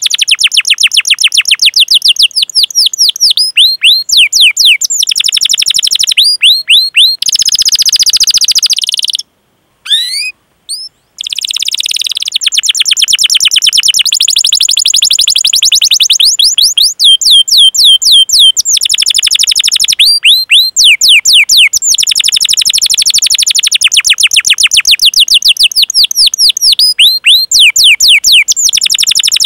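Domestic canary singing long rolling trills: rapid runs of high, downward-sweeping chirps, many per second, in long phrases, with a brief silent break about a third of the way through.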